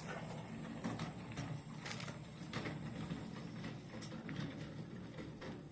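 Wheelbarrow being pushed over the ground, its wheel rumbling steadily with light rattles and knocks.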